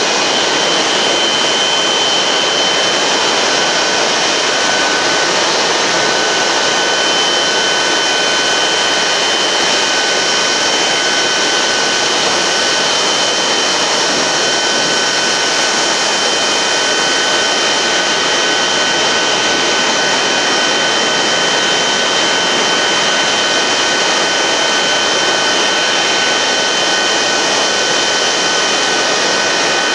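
Jet aircraft turbine running steadily: a loud, even rush with a constant high whine and no change in pitch.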